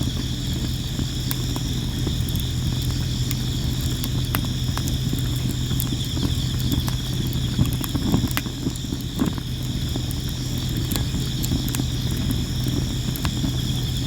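Sawara (Japanese cypress) firewood burning in a campfire, with frequent sharp crackles and pops over a low steady rumble of the flames. Insects chirp steadily in the background.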